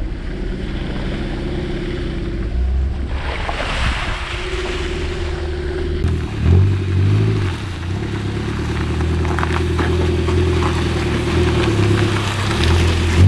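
Daihatsu Terios 4x4's engine running as it drives a dirt track, its revs swelling about six seconds in and again near the end, under a steady rushing noise.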